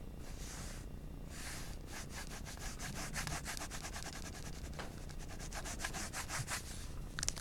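Graphite pencil shading on paper: two longer strokes, then rapid back-and-forth scratching strokes from about two seconds in.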